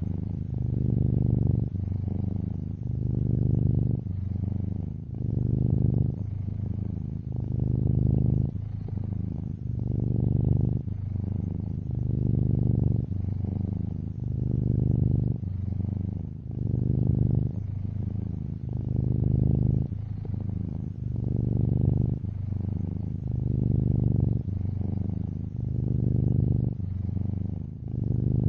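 Domestic cat purring steadily, a low rumble that swells and eases with each breath, about once every two seconds.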